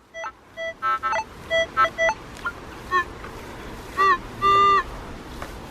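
Metal detector target tones: a string of short electronic beeps at differing pitches, then a few longer, slightly bending tones near the end, as the coil is swept over a signal the detectorist takes for junk.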